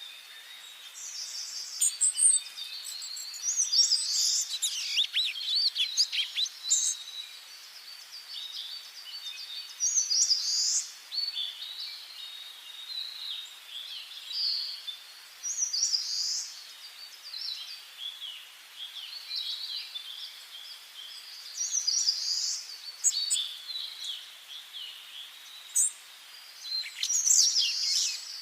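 Several songbirds singing in a forest, short song phrases and chirps coming every few seconds over a faint steady hiss.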